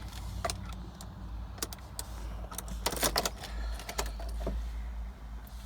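Keys clinking and clicking as they are handled and tried, in a string of sharp rattles that is busiest about three seconds in, over a steady low hum.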